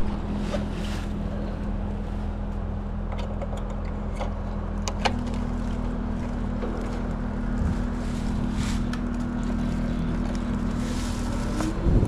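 Steady mechanical hum of a two-stage Trane air-conditioner outdoor unit, powered up to test the second compressor after its start and run wires were rewired, with a few faint clicks. The second compressor fails to start.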